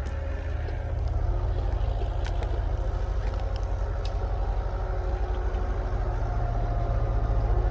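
Engine of an old GMC logging truck running with a deep, pulsing rumble and a faint whine above it, getting a little louder about a second in.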